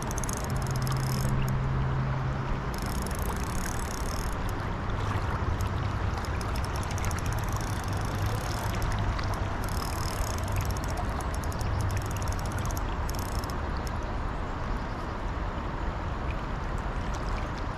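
Steady rush of flowing river current with a low hum under it. Several short spells of fine, high-pitched ticking come and go.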